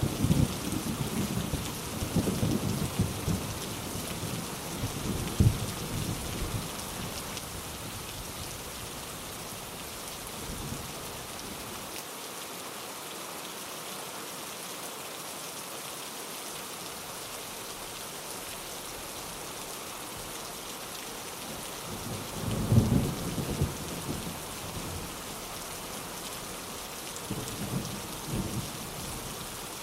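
Steady heavy rain with rolls of thunder. A low rumble fades away over the first few seconds, and another builds about two-thirds of the way through, followed by a smaller one near the end.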